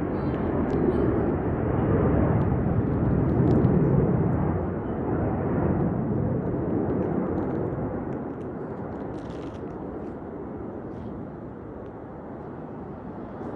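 An aircraft's engine noise rushing past, swelling to a peak a few seconds in and then fading steadily as it draws away.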